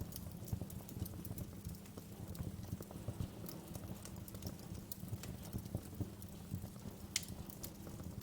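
Wood fire crackling in a fireplace: irregular small pops and ticks over a steady low rumble, with a sharper, louder snap about seven seconds in.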